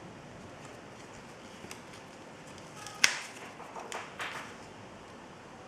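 Paper pieces being handled and pressed into place on a card: one sharp tap about three seconds in, then soft paper rustles.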